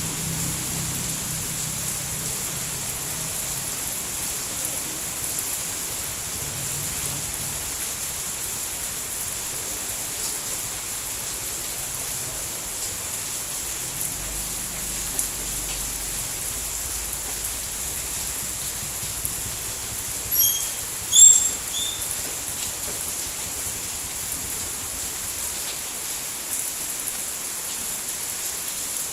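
Steady rain falling as an even, continuous hiss. About two-thirds of the way through, a few short high chirps sound over it.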